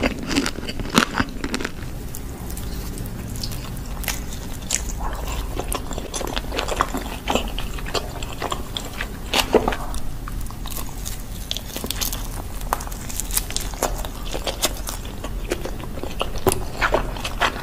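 Close-miked ASMR eating: a person biting and chewing pizza, with many irregular wet mouth clicks and soft crunches of crust.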